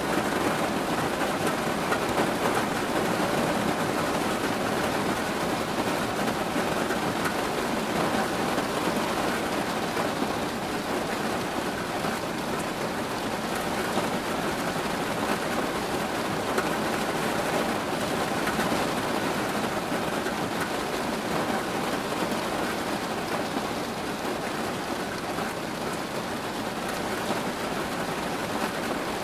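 Steady rain falling, an even hiss with a dense patter of drops on surfaces.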